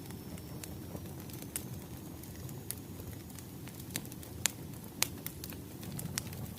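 Wood fire crackling: a steady low rush with scattered sharp pops, the two loudest about four and a half and five seconds in.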